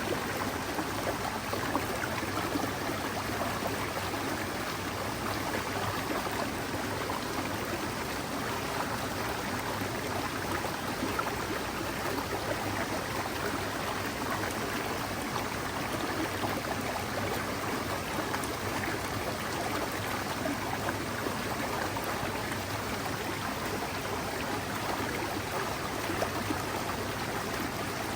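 Mountain stream flowing over rocks, a steady babbling and splashing of water that stays even throughout.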